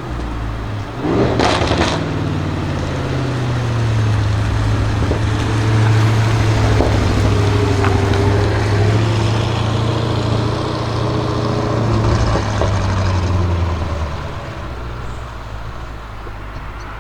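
A car engine running steadily at low revs, a low even drone that fades away near the end. About a second in, another vehicle passes with a short whoosh.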